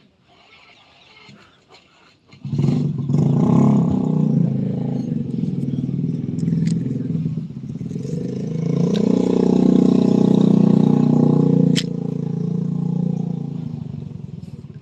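A small engine starts up abruptly about two seconds in and runs with a steady low drone, loudest in the middle and fading near the end.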